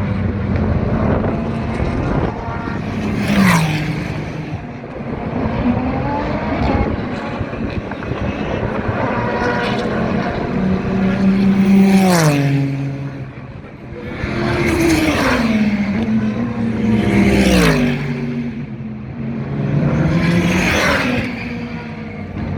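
Super GT race cars passing close by one after another, about five loud passes, their engine notes dropping in pitch as each goes by and as they lift and shift down.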